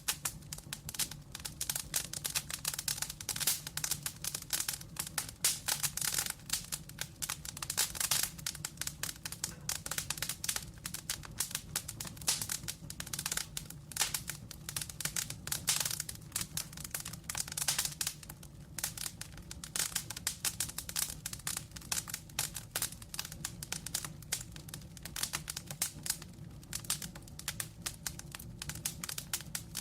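Log fire crackling in a fireplace: dense, irregular pops and snaps over a low, steady hum of flame.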